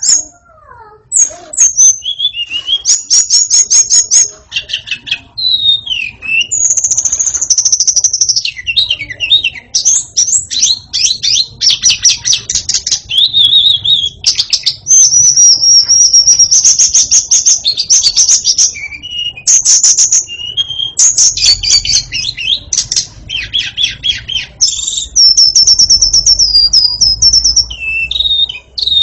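White-rumped shama (murai batu) singing loudly and continuously: a long run of varied whistled phrases, rapid repeated notes and trills, some sliding up or down, with brief pauses.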